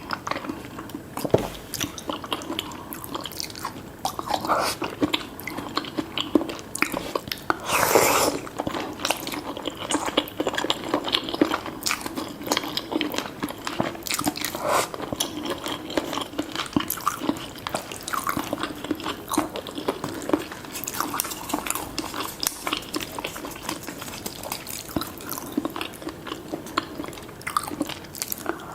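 A person eating spicy seafood noodle soup: steady chewing and wet mouth sounds with many small clicks, and a louder burst about eight seconds in.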